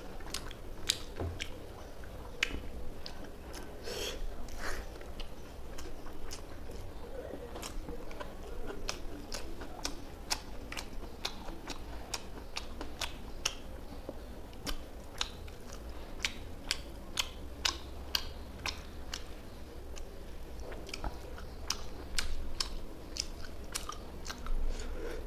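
Close-up chewing and mouth sounds of a man eating rice and mustard telkoi (climbing perch) fish curry by hand: irregular wet smacks and clicks, several a second.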